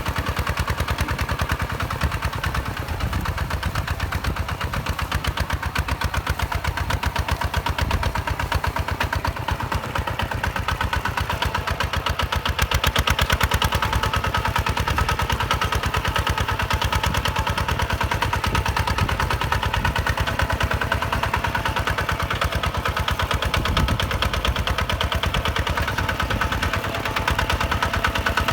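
Hinota HG Gold 155 DI direct-injection diesel engine running at a steady speed, with a rapid, even firing beat.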